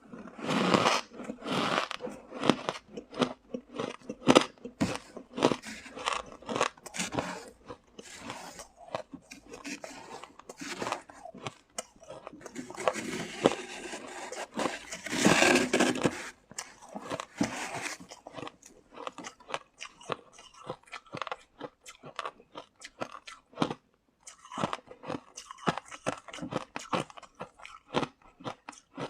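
Close-up crunching and chewing of soft freezer frost, with many small crackling squeaks as the ice is bitten and packed between the teeth, and louder bites near the start and about halfway through.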